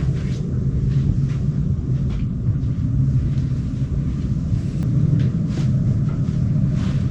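Steady low rumble and hum of a cruise ship heard inside a stateroom, with a few faint light knocks over it.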